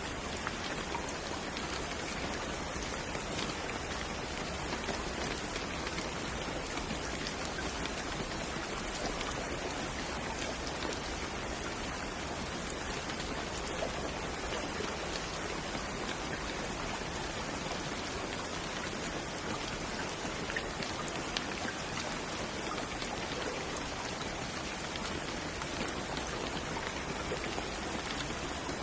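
Steady rain falling on a surface, an even hiss of many small drops with faint individual drop ticks.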